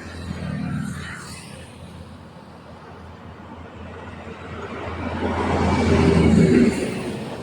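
A motor vehicle's engine running close by, building slowly to a peak about six seconds in, then falling away quickly.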